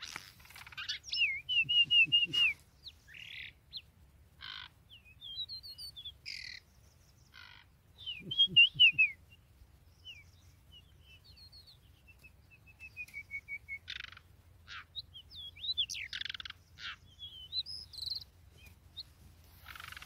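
Magpie-robin singing a varied run of clear whistled phrases, trills and chirps, broken by short pauses, with a couple of louder low bumps about two seconds in and again around eight seconds in.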